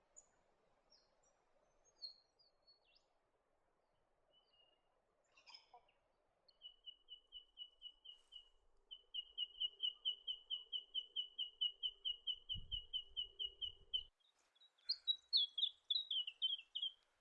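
Songbird singing: a long even trill of repeated notes, about four a second, then near the end a short run of notes falling in pitch.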